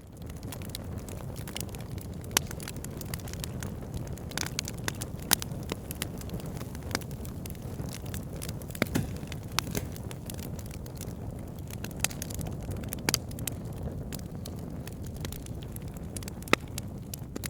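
Wood fire burning with a steady low rumble and scattered crackles and pops from the burning logs, with a handful of louder sharp snaps standing out.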